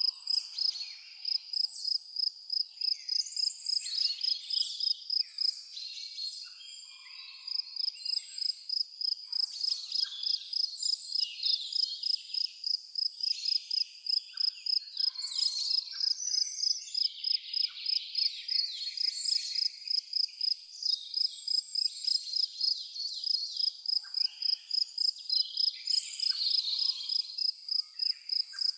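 An insect chirping in a steady high-pitched rhythm, about three chirps a second, with birds calling here and there over it.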